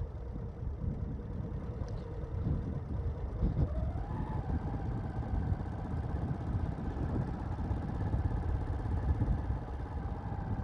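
Motorcycle engine running while riding, with a low rumble of road and wind noise; about four seconds in a whine rises in pitch and then holds steady.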